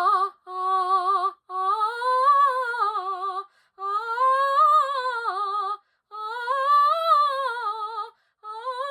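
A woman's classical voice singing short vowel phrases with vibrato, about five of them, several rising and then falling in pitch. It is a vocalise sung with the tongue pressed down against the floor of the mouth, the correct tongue position as opposed to a raised tongue.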